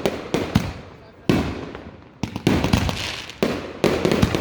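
Fireworks going off: clusters of sharp bangs and crackles, a new volley about every second, each dying away before the next.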